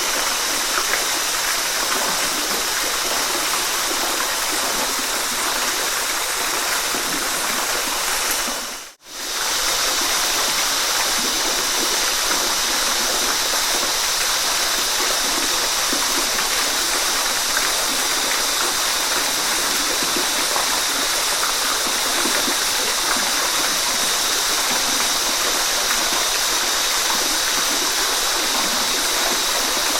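Waterfall: steady rushing, splashing water with a bright hiss. About nine seconds in it fades out to near silence for a moment and comes straight back.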